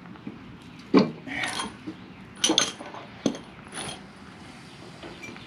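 A handful of sharp metallic clinks and knocks, about five spread irregularly, with light rustling between: tools and metal parts being handled during mower deck repair.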